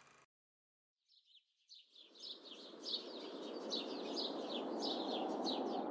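Birds chirping in quick, repeated short calls over a steady outdoor background hiss, fading in after about a second of silence.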